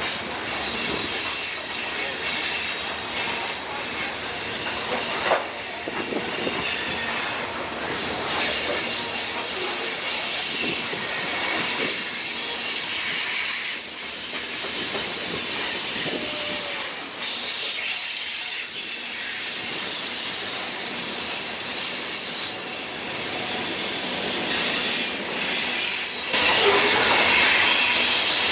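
Freight cars of a CSX mixed manifest train rolling past, steel wheels running on the rail with a steady high squeal. It grows louder near the end.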